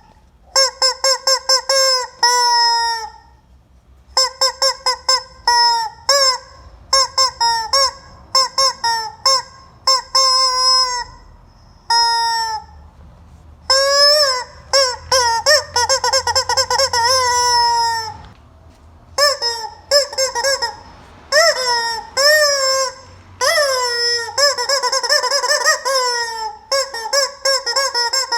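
Rubber chicken squeeze toy squawking again and again as it is squeezed. It goes in irregular runs of quick short squawks and longer drawn-out ones, each bending in pitch, with brief pauses between.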